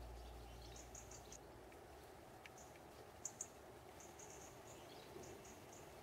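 Faint high-pitched chirps of small garden birds in short runs of quick notes, several times over, against a quiet hiss.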